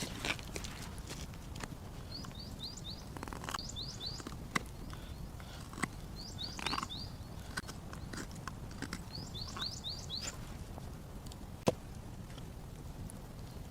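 A small bird calling in quick runs of three to five short, high chirps, repeated several times, with scattered sharp clicks and a steady low rumble underneath.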